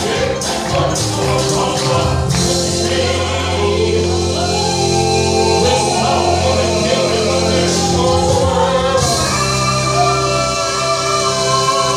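Gospel vocal group singing in close harmony over instrumental accompaniment, holding long sustained notes through the middle of the passage.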